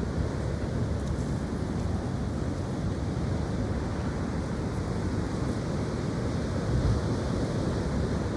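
Strong wind blowing steadily, with a low rumble of wind buffeting the microphone.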